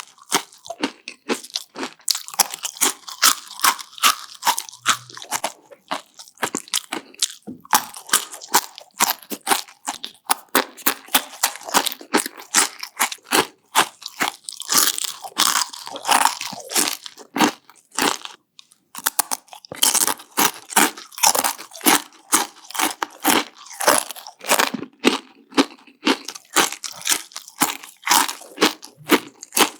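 Close-miked crunching and chewing of Takis, hard rolled corn tortilla chips, in rapid strokes of several a second, with brief pauses about six and eighteen seconds in.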